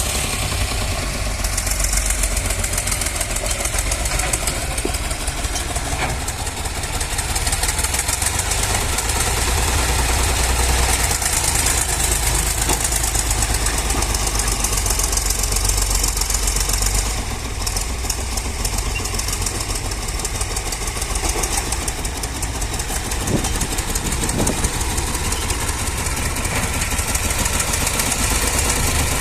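Tractor's diesel engine running steadily with a fast, even clatter, easing off slightly about two-thirds of the way through.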